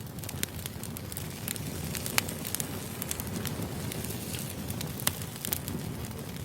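Wood fire burning, with a steady low rumble of flames and irregular crackles and pops of splitting firewood, the sharpest pop about two seconds in.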